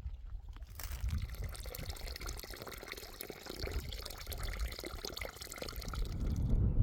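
Water running or pouring, an even splashing noise that starts about a second in and stops shortly before the end.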